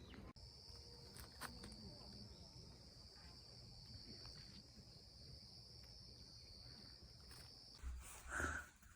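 Faint, steady high chirring of crickets, which stops abruptly near the end, followed by a brief louder sound.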